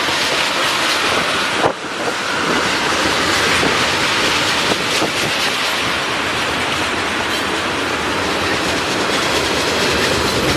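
Norfolk Southern freight train rolling past, a steady rumble of steel wheels on rail with the clickety-clack of wheels crossing rail joints.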